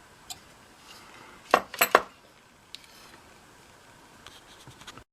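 Small metal tools and parts clinking on a workbench: a quick cluster of three or four sharp clinks about a second and a half in, then a few faint ticks near the end.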